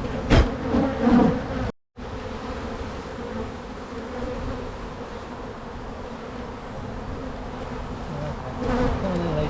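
Honey bees buzzing around an opened hive: a steady, dense hum of many bees, with a knock near the start.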